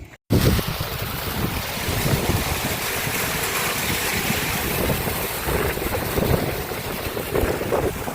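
Water from a well pump rushing through a fill hose into a truck's water tank: a loud, steady rushing that starts abruptly just after the start.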